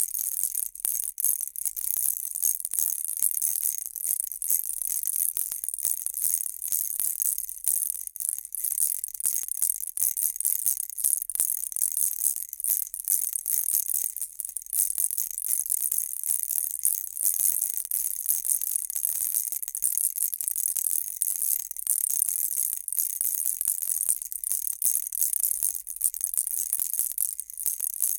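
Baby rattle shaken without pause: dense, high-pitched rattling and jingling with many quick strokes.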